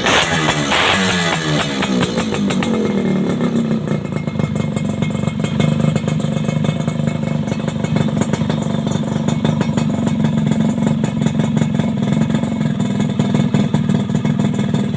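Yamaha F1ZR's two-stroke single-cylinder engine breathing through an aftermarket racing exhaust. The revs fall away from a blip over the first couple of seconds, then it idles steadily.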